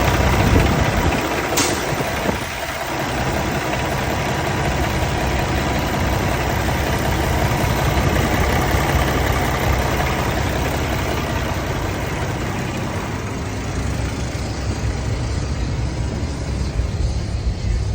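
Diesel engine of a 2022 Kenworth T680 semi-truck tractor running steadily at idle, with a brief click about a second and a half in.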